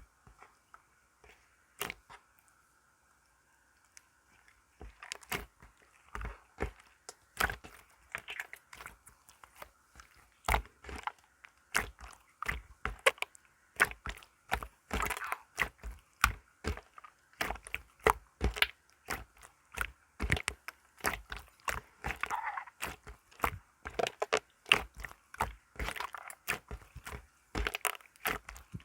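Crunchy material being mixed by hand: an irregular run of sharp crackles and clicks, several a second, starting about five seconds in.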